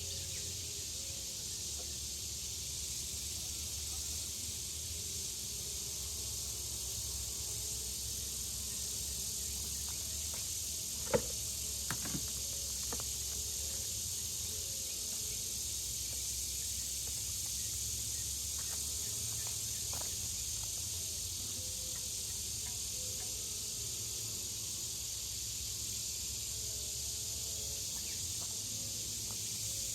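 Honey bees buzzing around an open hive, heard over a steady hiss. There is a sharp click about eleven seconds in and a few lighter clicks after it.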